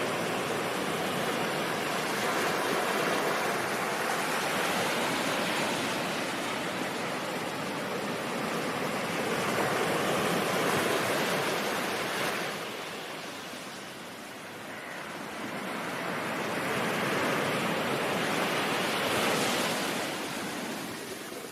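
Ocean surf: a continuous wash of waves that swells and recedes slowly, easing off about twelve seconds in, building again and falling away near the end.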